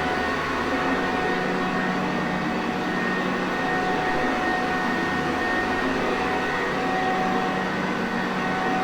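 Sanitaire Perfect vacuum cleaner motor running steadily: an even whooshing hum of constant loudness with faint whining tones on top.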